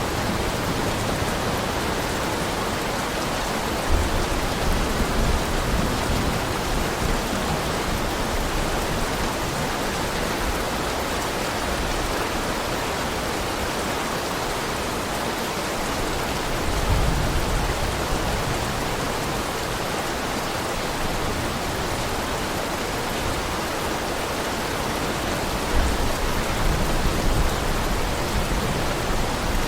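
Heavy rain falling steadily, an even hiss, with three brief low rumbles: about four seconds in, just past the middle, and near the end.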